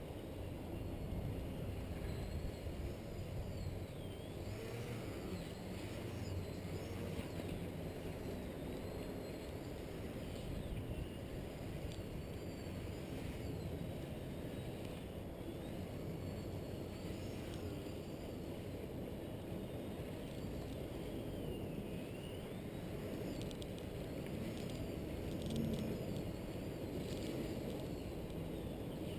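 Strong wind buffeting the microphone with a steady low rumble, over the thin high whine of a radio-controlled Edge 540 aerobatic model plane's electric motor, gliding up and down in pitch as the plane flies around.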